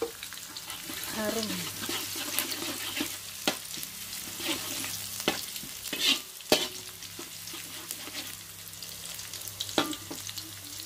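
Sliced shallots and garlic sizzling in hot oil in a wok while a metal spatula stirs them, with sharp scrapes and taps of the spatula against the wok several times.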